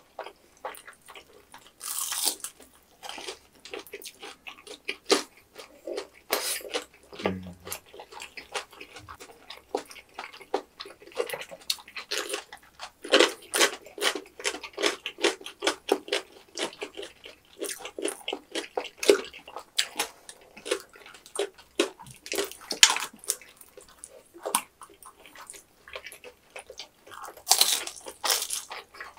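Close-miked eating sounds: wet, sticky chewing and mouth clicks of rice cakes in thick tteokbokki sauce, with a crisper bite into fried food near the end.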